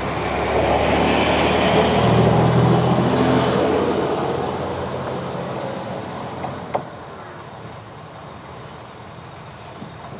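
Diesel railcar pulling away from the platform: its engine note swells and a thin whine climbs in pitch as it accelerates, then the sound fades as it leaves. A sharp click is heard about seven seconds in.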